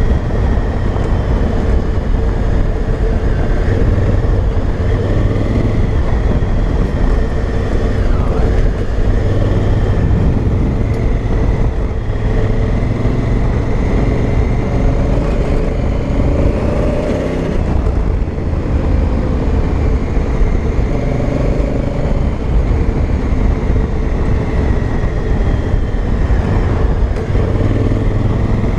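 Honda Africa Twin CRF1000L's parallel-twin engine running steadily as the motorcycle is ridden along a trail.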